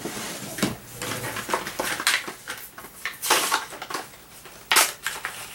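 Rummaging on a craft table: tools and paper clattering and rustling as a ruler is fetched, with a couple of louder knocks near the end.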